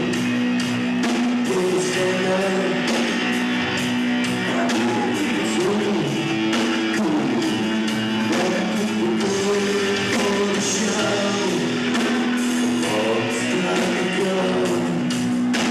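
Rock band playing live, with electric guitar, drums and sung vocals.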